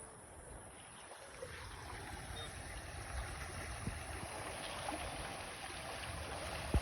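Fast-flowing floodwater rushing steadily, growing a little louder, with a sharp click at the very end.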